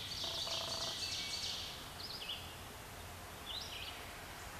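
Songbirds singing in woods: short high phrases repeat every second or two, with a longer, fuller stretch of song and a lower call in the first second and a half, over a steady outdoor background hush.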